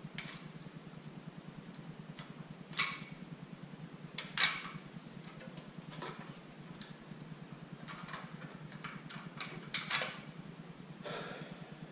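Metal clutch plates clinking and clicking as friction discs and steels are worked out of a motorcycle's stock Ultima clutch basket one at a time, over a steady low hum.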